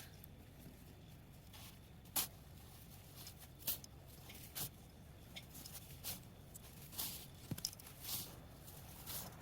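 Snow being dug out by hand: a series of short crunching scrapes at irregular intervals, a second or two apart.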